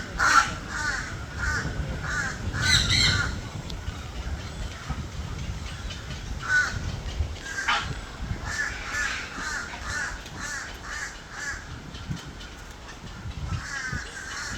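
A group of birds calling, many short calls repeated in quick bouts, with a quieter lull about four to six seconds in.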